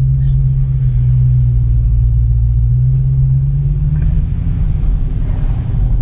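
Supercharged 6.2-litre Hemi V8 of a Dodge Charger Hellcat, heard from inside the cabin as the car creeps along at low speed. It gives a low, steady engine note whose pitch rises a little about four seconds in.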